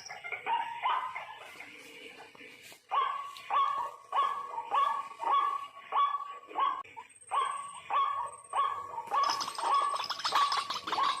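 White-breasted waterhen calling, a run of evenly repeated harsh call notes about two a second. The calls grow busier and fuller near the end.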